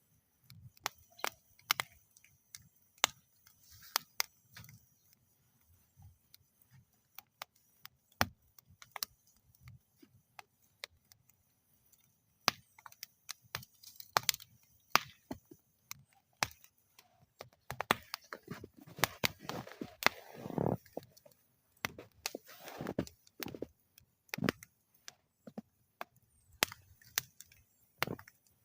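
Campfire burning in a metal fire bowl, crackling with irregular sharp pops and snaps, busiest in the latter half of the stretch.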